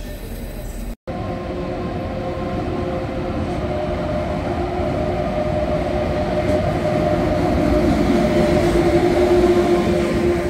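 DB Class 152 electric freight locomotive and its train of loaded flat wagons passing slowly: a steady rumble with several steady tones, growing louder toward the end, after a brief dropout about a second in.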